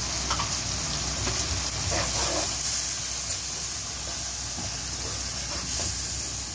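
Onion-tomato masala with freshly added ground spices sizzling in hot oil in a nonstick kadai, a steady hiss, with the occasional scrape of a slotted spoon stirring it.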